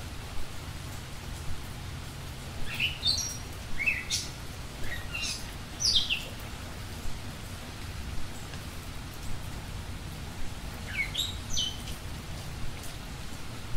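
Small songbird giving short, high chirps, mostly falling in pitch, in a cluster a few seconds in and again near the end, over a steady hiss.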